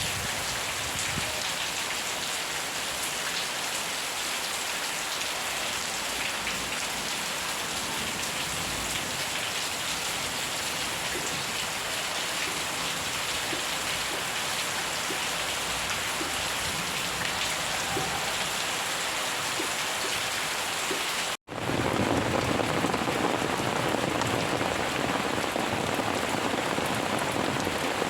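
Steady rain falling on a surface, an even continuous hiss. About three quarters of the way through it cuts out completely for a split second, then resumes a little louder.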